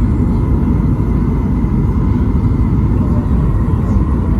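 Steady cabin rumble inside a Boeing 737 MAX 8 in flight, from its CFM LEAP-1B engines and the airflow over the fuselage, with a faint steady hum above it.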